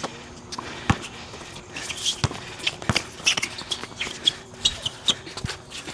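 Basketball players' footsteps and shoe scuffs on a court, with the ball bouncing a few times.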